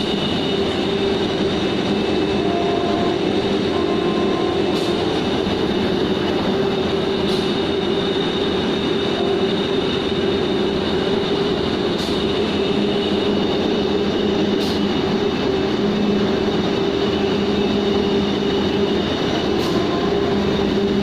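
A machine running steadily at constant speed, with a continuous hum and drone and a few sharp clicks every few seconds.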